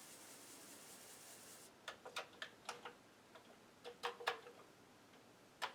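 Keystrokes on a Commodore 64 keyboard: irregular sharp clicks in short runs, starting about two seconds in, pausing briefly and starting again near the end.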